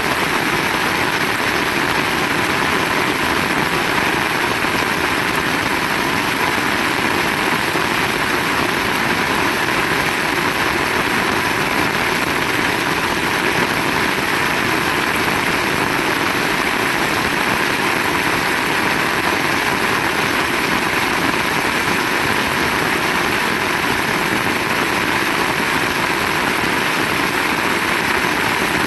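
Heavy rain falling steadily: a dense, even downpour hiss with no break or thunder clap.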